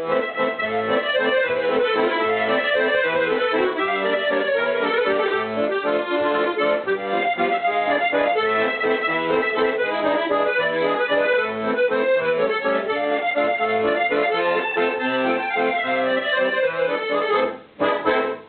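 Accordion music, a lively tune played steadily, breaking off briefly just before the end with one last short chord.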